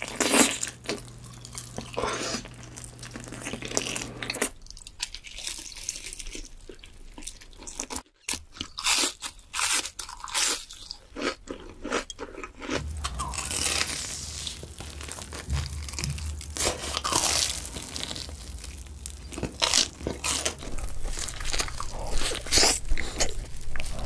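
Close-miked biting and chewing, with repeated loud crunches of crispy fried chicken. Abrupt changes in background tone between clips break up the eating.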